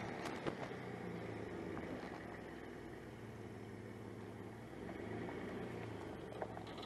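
An SUV's engine running at low, steady revs as the vehicle creeps forward, towing on a rope tied to a stuck magnet.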